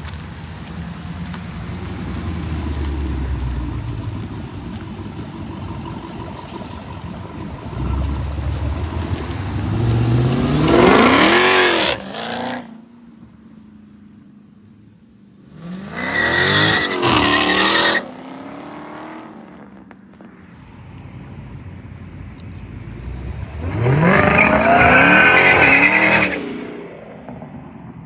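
A car engine revved hard three times over a low idle. The first rev climbs quickly to high pitch and cuts off sharply about twelve seconds in, the second is a short rev up and back down, and the third is held high for about three seconds near the end before dropping.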